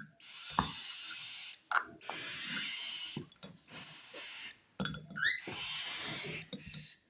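Baby cockatiel chicks giving raspy, hissing begging calls for food in repeated runs of about a second each, with short gaps between them. A few sharp clicks come among them, and a short rising squeak about five seconds in.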